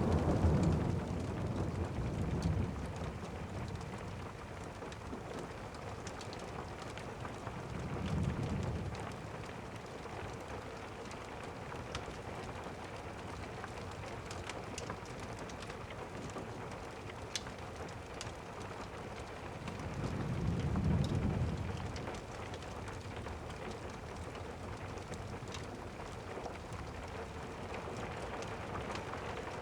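Steady rain with thunder rumbling low three times: at the start, about eight seconds in and about twenty-one seconds in. A few faint crackles are scattered through it.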